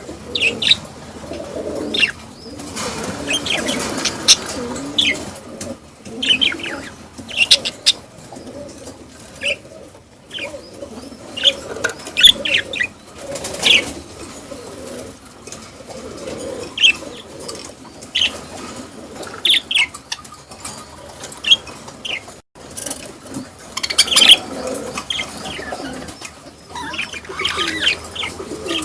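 Small cage birds chirping in many short, sharp calls over a low chatter, with bursts of wing flapping.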